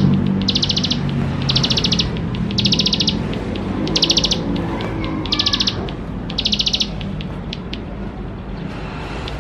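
A ciblek sawah (a small prinia songbird) singing a series of fast, buzzing trills, each about half a second long and roughly one a second, stopping about seven seconds in, over a steady low background hum.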